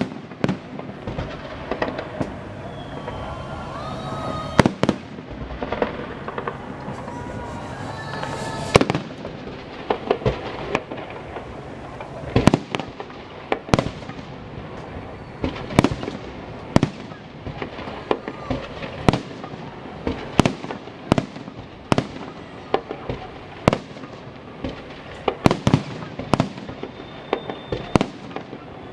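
Festive fireworks bursting overhead in a string of sharp bangs. They are spaced out at first and come about once a second or faster from midway on.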